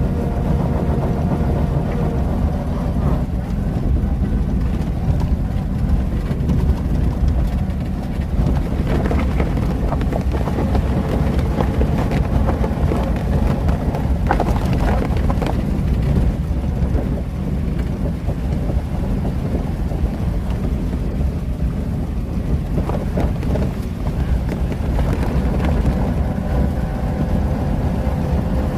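A 1926 Chrysler Royal coupe running steadily as it is driven, its sound mostly low-pitched. Through the middle of the stretch a rushing, rain-like noise of water splashing grows stronger over the engine.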